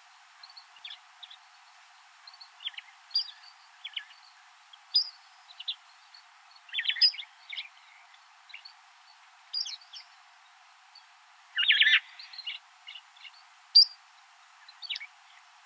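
Wild birds chirping: short, scattered calls and twitters, with louder bunches of calls about seven and twelve seconds in.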